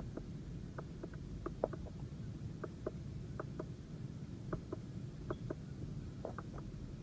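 Faint, irregular clicking of the Mercedes-Benz ML350's left steering-wheel control buttons, pressed one after another to scroll through the instrument-cluster display, over a low steady cabin rumble.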